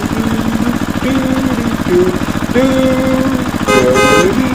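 An engine idling with a steady, rapid chug, overlaid by wandering tones. Near the end comes a brief, bright sound with a strong pitch.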